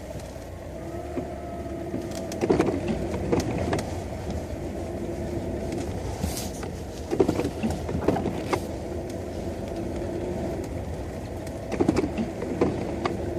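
VAZ classic (Zhiguli) engine running steadily, heard from inside the car's cabin, with a few short knocks in small clusters every few seconds.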